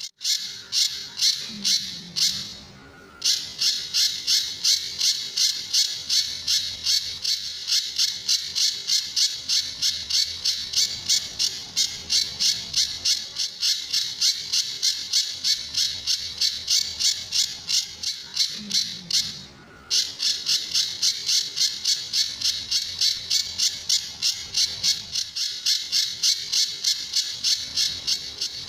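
Pijantur songbird calling: a long, fast run of sharp, high-pitched repeated notes, about three a second, with two brief breaks.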